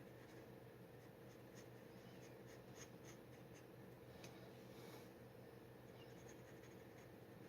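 Faint scratching of a steel G-nib dip pen on paper: short, irregular ink strokes, over a steady low hum.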